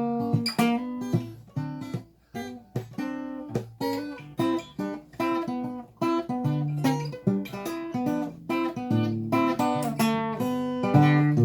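Acoustic guitar playing an instrumental break, with quick strummed and plucked chords in a swinging rhythm.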